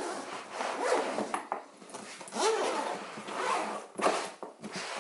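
Zipper on a semi-hard shell drone case being pulled open in several strokes as it is worked around the case's edge.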